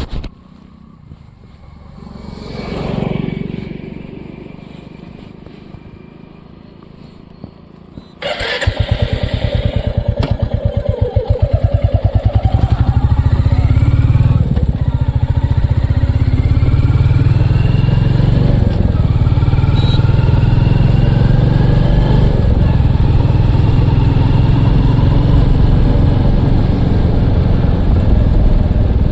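Royal Enfield Classic single-cylinder motorcycle engine. After a quieter stretch it starts suddenly about eight seconds in, revs up briefly, then settles into a steady, even idle.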